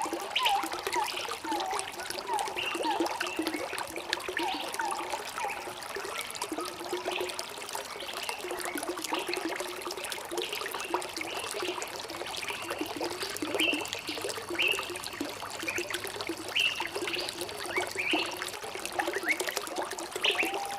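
Water trickling and gurgling over stones in a steady flow, with short, high bird chirps scattered through it.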